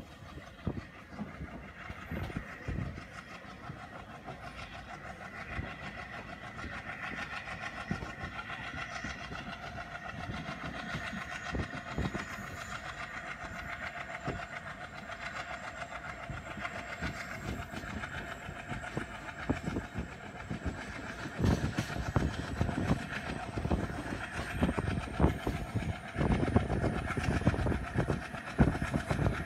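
Passenger train running at speed, heard from a coach window: a steady rumble with wheels clicking over the rail joints. The clatter grows louder and heavier about two-thirds of the way through.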